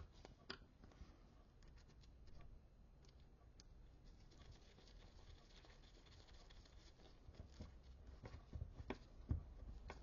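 Near silence with scattered faint clicks and light knocks of small metal clutch parts being handled and fitted, a few sharper knocks about nine seconds in.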